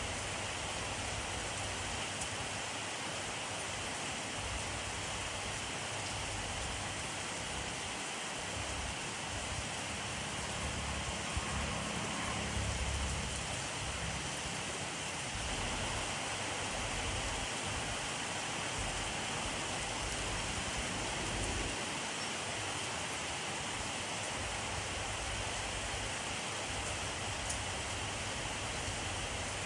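Steady rainfall: a dense, even hiss of drops, with a brief low rumble swelling a little before the middle.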